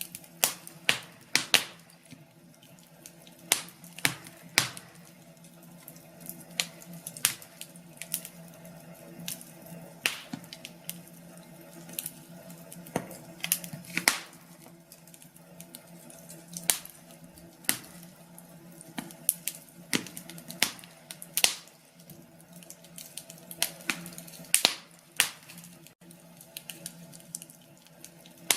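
Wood fire crackling in a fireplace: irregular sharp pops and snaps, sometimes in quick clusters, over a faint steady background.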